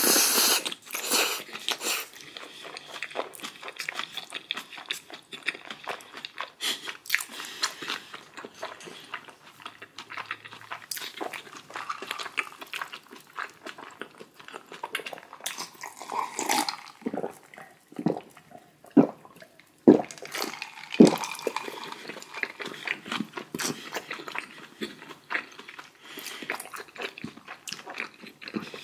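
A person chewing and crunching food close to the microphone, with a dense run of short crunches and mouth clicks and a few heavier bites in the second half.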